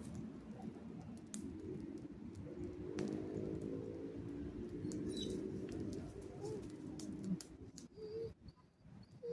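A dove cooing low in repeated phrases, clearest in the middle stretch, over a steady low background, with scattered sharp clicks.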